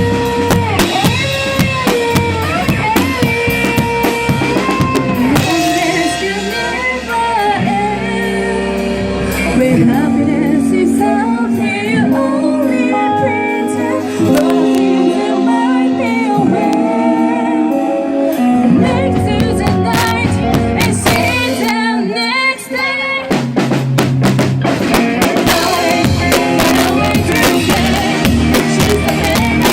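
Live rock band playing an instrumental passage on drum kit, bass, guitar and keyboard, recorded with scratchy sound. Midway the playing thins out to a few sparse hits before the full band comes back in.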